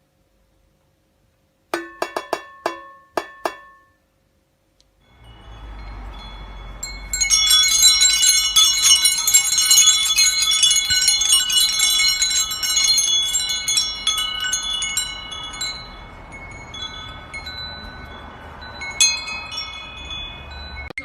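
Metal chimes ringing: a few quick struck tones about two seconds in, then after a short pause a dense jangle of many chimes that swells, slowly thins out, and flares once more near the end.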